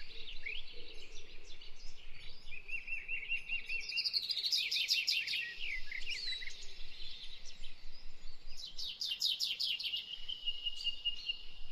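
Songbirds singing: warbling phrases, with two spells of rapid trills of quick down-sweeping notes, about four seconds in and again about nine seconds in, and a thin high held note near the end.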